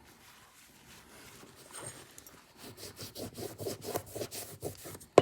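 Scrubbing the grime off alcohol-soaked knife parts, with quick back-and-forth strokes that start about halfway in. One sharp knock near the end.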